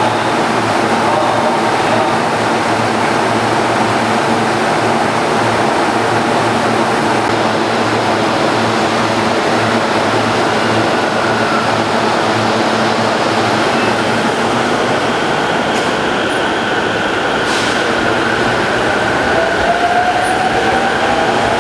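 JR Sobu Line local electric commuter train running, heard from inside the passenger car: a steady rumble of wheels and running gear, with a motor whine rising in pitch near the end.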